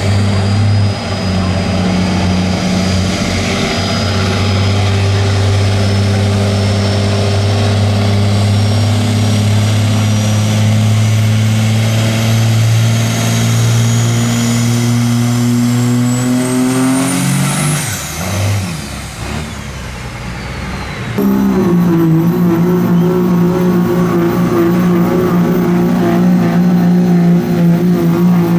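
Pulling truck's engine running hard under full load against a sled, with a thin high whine that climbs steadily in pitch. The engine's pitch rises over the last few seconds of the run and then drops away, about 18 seconds in. About three seconds later another loud, steady engine at a higher pitch comes in abruptly.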